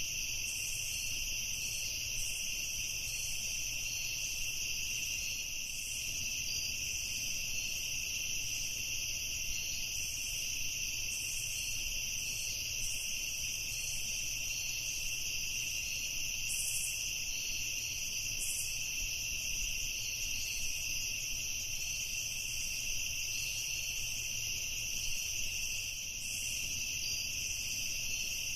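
Evening chorus of crickets, a steady, unbroken high-pitched trilling.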